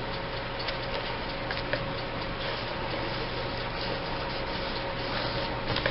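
Steady background hum and hiss of the room, with a few faint light clicks.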